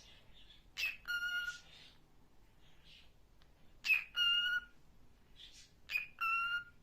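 Pet parrot calling three times, each call a short sharp note followed by a held, steady whistle-like note.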